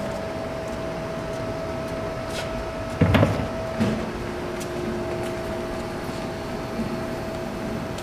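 A steady background hum with a thin constant tone. About three seconds in comes one loud knock or clatter, and a smaller knock follows just under a second later.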